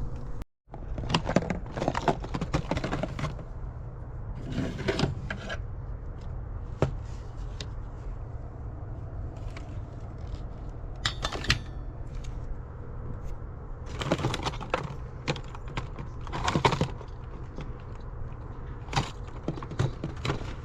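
Rummaging through dumpster finds: irregular bursts of rustling, scraping and clattering of objects being handled, over a steady low rumble. The sound cuts out completely for a moment about half a second in.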